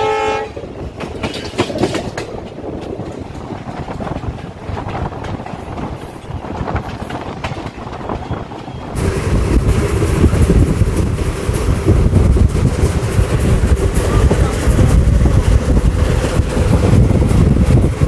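Moving passenger train heard from an open coach door: wheels clattering over the rails with steady rumble, and a brief steady tone at the very start. About nine seconds in the sound jumps louder, with heavier rumble, quick clickety-clack and wind on the microphone as the train runs at speed.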